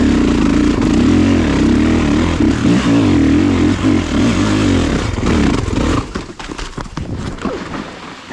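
Kawasaki KX450 dirt bike's single-cylinder four-stroke engine running at a wavering idle, cut off about six seconds in, followed by a spell of crackling and clicks.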